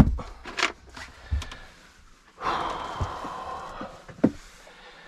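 Clunks and knocks from a heavy leisure battery being handled and set in place. A scraping slide lasts over a second in the middle.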